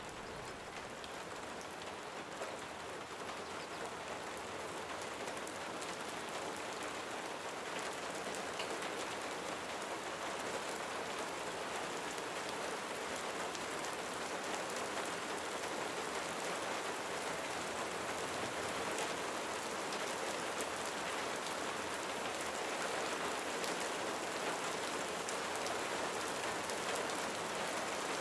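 Steady rain falling on a roof, an even hiss with scattered sharp drop ticks, growing slightly louder throughout.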